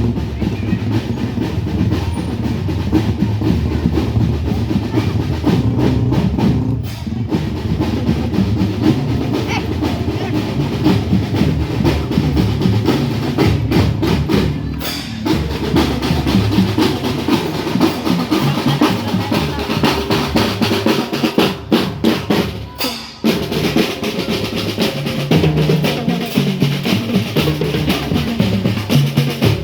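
Marching drum band playing: snare drums with rolls over bass drums in a steady beat, pausing briefly a few times between phrases.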